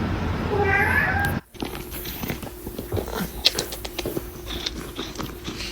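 A domestic cat meows once over background noise. After a sudden cut, scattered light clicks and knocks follow over a faint hum.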